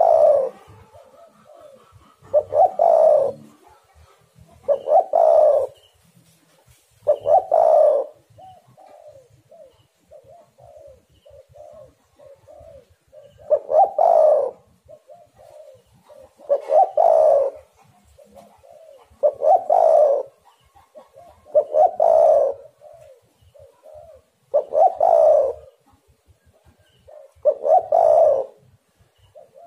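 Spotted dove (tekukur) cooing: a loud coo phrase every two to three seconds, with softer coos in between. The loud phrases pause for a few seconds about a third of the way through.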